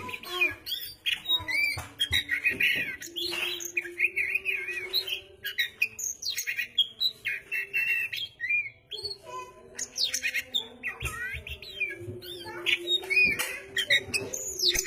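Oriental magpie-robin (kacer) singing vigorously and without pause: a fast, varied song of chirps and whistled glides.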